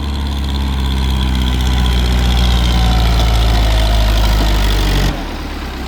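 Powertrac Euro 55 tractor's diesel engine working hard under load as it hauls a loaded trolley up a ramp, growing louder over the first two seconds and holding steady, then dropping suddenly about five seconds in.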